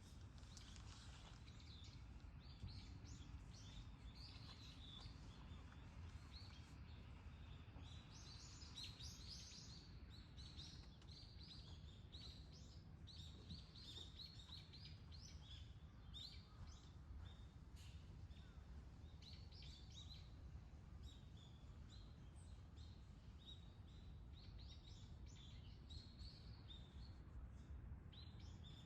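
Small birds chirping faintly, many short high calls repeating throughout, over a low steady rumble.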